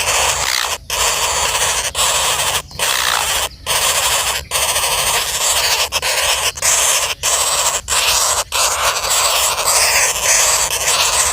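Common flameback woodpeckers giving harsh, raspy calls without a break, cut by about ten brief gaps.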